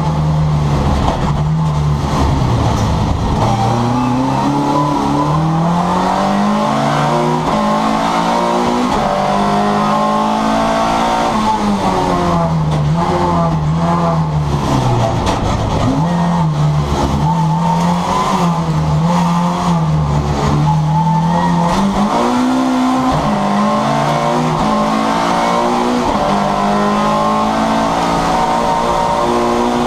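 Rally car engine heard from inside the stripped, roll-caged cabin, driven hard: the revs climb and fall again and again through gear changes, with several deep drops where it comes off the throttle.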